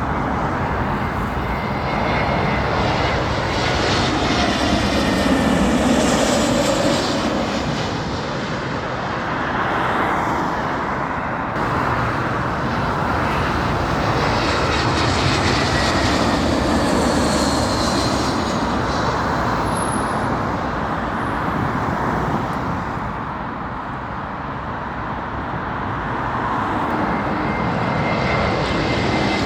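Jet airliners on final approach passing overhead: a continuous engine rumble with a high whine that slides in pitch. The noise swells and fades more than once.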